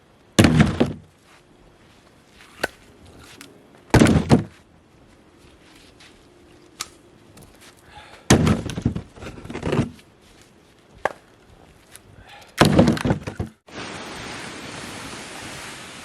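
Firewood being chopped: four heavy wooden thunks about four seconds apart, with a few light knocks between them. About fourteen seconds in, a steady rush of wind noise takes over.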